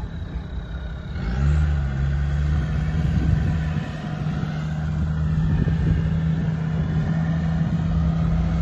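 Off-road SUV engine running, picking up revs about a second and a half in and then pulling at steady higher revs.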